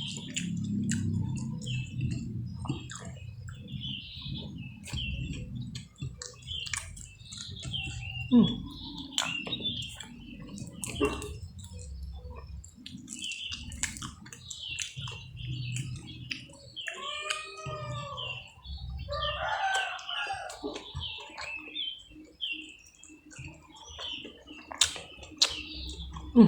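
Small birds chirping over and over, with a rooster crowing once about two-thirds of the way through. Under them are close-up eating sounds: chewing and handling of food.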